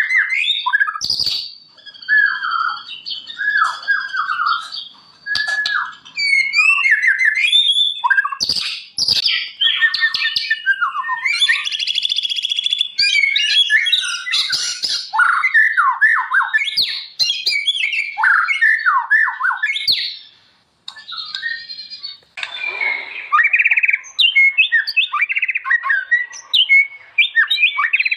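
White-rumped shama (murai batu) singing a long, varied song of rising and falling whistles, rapid trills and harsh, buzzy chattering phrases, with a few sharp clicks. There is a short pause about three-quarters of the way through.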